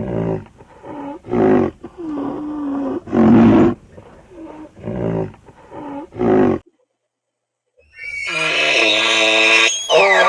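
An animal's repeated throaty calls, about eight of them in six seconds. After a brief silence, a different, higher-pitched drawn-out call starts near the end.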